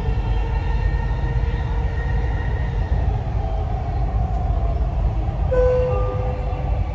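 Dubai Metro train running, heard from inside the carriage: a steady low rumble with a faint motor whine. About five and a half seconds in, a short, clear steady tone sounds over it.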